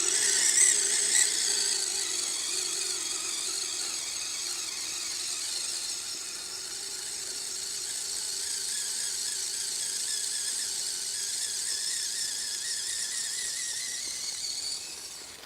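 Kyosho Blizzard SR radio-controlled snow cat's electric drive running, a steady high-pitched motor and gear whine. It is loudest in the first second or two and drops away right at the end.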